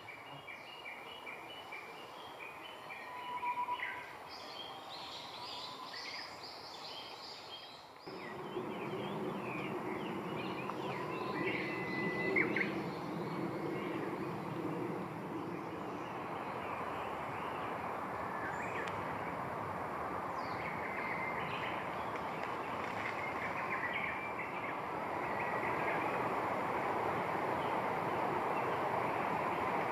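Wild birds chirping and calling in short, scattered notes. About eight seconds in, a steady rushing noise starts abruptly and carries on, growing a little louder near the end, with only occasional bird notes over it.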